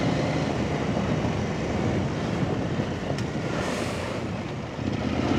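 Off-road trail motorcycle engine running while riding, mixed with wind noise on the microphone.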